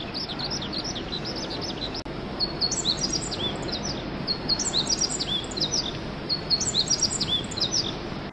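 Birds chirping and singing over a steady hiss: a quick run of short high chirps, then from about two and a half seconds in a repeated song phrase about every two seconds, cutting off suddenly at the end.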